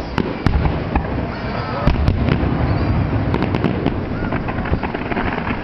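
Fireworks display finale: shells bursting in quick, overlapping succession, deep booms mixed with sharp cracks and pops, and a few short whistling glides.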